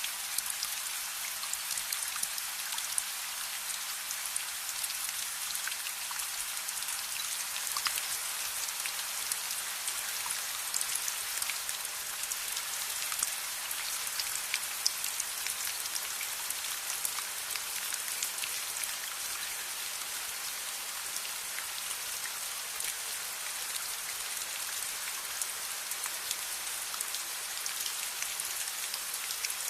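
Steady rain: a dense, even hiss of falling rain scattered with many small sharp drop ticks.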